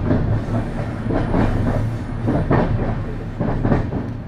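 Diesel-hauled express passenger train's coaches running along the track, heard from an open coach door or window: a steady low rumble with irregular clickety-clack of wheels over rail joints.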